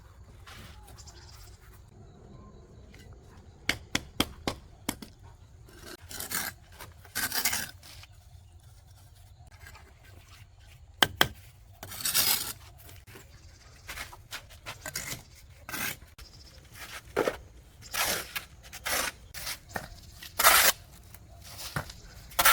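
Irregular scraping and rubbing strokes, each under a second, with a few sharp clicks about four seconds in and again about eleven seconds in.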